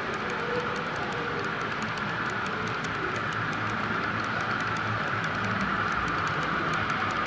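Model train running along the layout track, a steady whir from its motors and wheels with a light, regular clicking of wheels over the rail joints.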